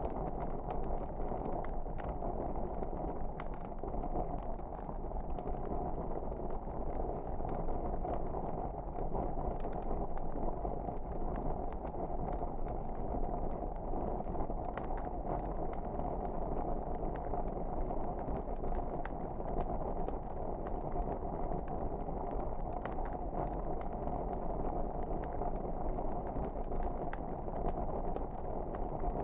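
Wood fire burning in a fireplace: a steady low hiss of flames with frequent small, scattered crackles and pops.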